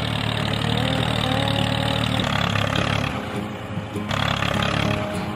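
Tractor engine sound running steadily, changing tone about two seconds in and easing briefly in the middle.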